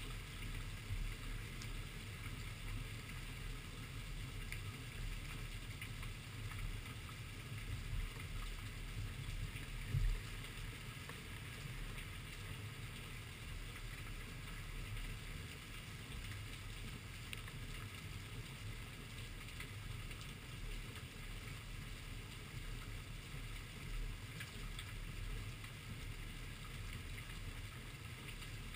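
Steady rain falling, with drops landing on the camera, over a low rumble; one thump about ten seconds in.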